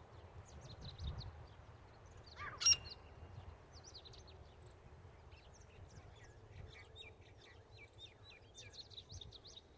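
Birds chirping and twittering with many short high calls, and one short, loud rising call about two and a half seconds in.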